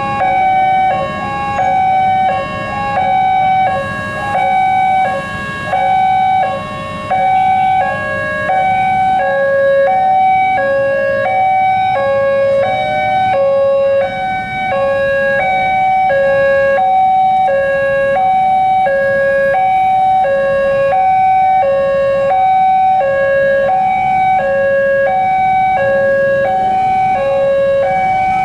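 Railway level-crossing alarm bell sounding its electronic two-tone ding-dong, alternating steadily between a high and a low tone: the warning that the gates are down and a train is due. Road traffic rumbles underneath.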